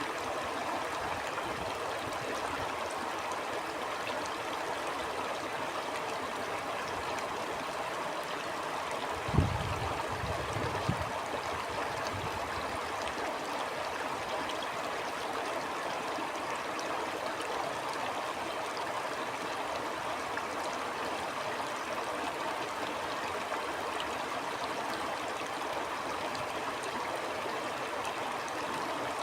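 Stream water flowing steadily over rocks, an even rushing and gurgling. A brief low thump comes about nine seconds in, with a smaller one shortly after.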